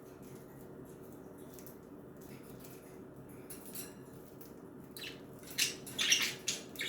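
Pet budgerigars: faint scratchy chirps and ticks, then from about five and a half seconds in a run of loud, short, harsh squawks as one male drives another from its cage house.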